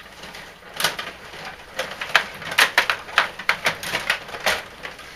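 Ice hockey play on the rink: skate blades scraping the ice and sticks clacking on the puck in quick, irregular strokes.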